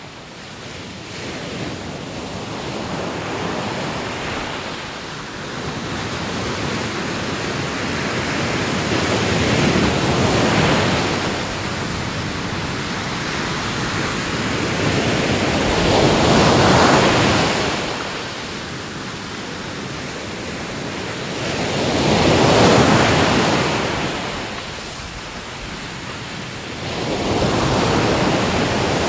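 Ocean waves breaking on a shore, a steady wash of surf swelling to a louder crash about every six seconds.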